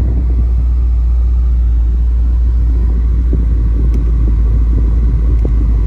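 2013 Corvette Grand Sport's 6.2-litre LS3 V8 idling with a steady low rumble, shortly after a cold start, heard from inside the cabin.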